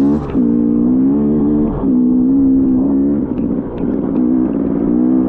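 Two-stroke dirt bike engine running under steady throttle, easing off briefly a few times and picking up again.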